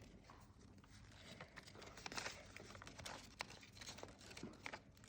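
Faint rustling and soft clicks of a sheet of paper being handled and folded, with a few brief crinkly swishes, the loudest about two seconds in.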